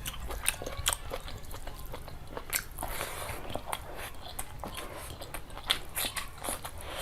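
Close-miked eating sounds: a person biting and chewing curry and rice, with many irregular sharp clicks throughout.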